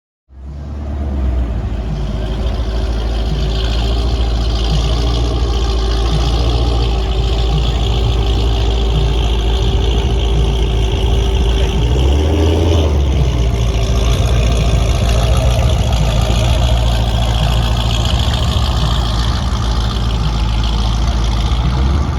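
Car engine running steadily with a deep low rumble, its pitch shifting briefly about twelve seconds in.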